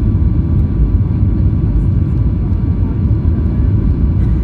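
Steady, loud rumble of airliner engine and airflow noise heard inside the passenger cabin of a flydubai Boeing 737, around the landing.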